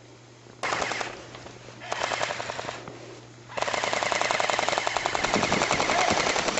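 Airsoft guns firing on full auto. There are two short bursts of rapid shots in the first three seconds, then a long continuous burst that starts about three and a half seconds in.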